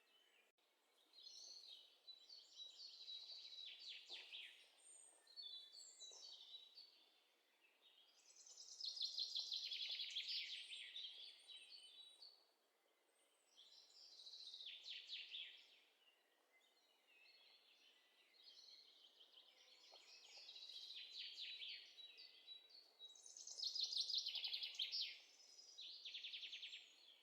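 Birdsong: repeated high-pitched trilled phrases, each a second or a few seconds long, with short pauses between them.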